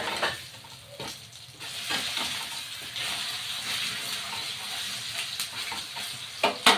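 Batter-coated pumpkin-flower fritters sizzling as they deep-fry in hot oil, with a few light utensil clicks and a sharp knock near the end.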